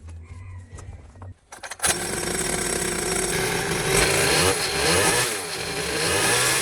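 Small motorcycle engine starting up after a few clicks about two seconds in, then running with its revs rising and falling.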